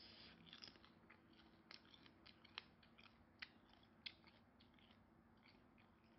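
Faint close-up chewing of a steamed prawn: soft wet mouth clicks and smacks, with a few sharper clicks in the middle, over a low steady hum.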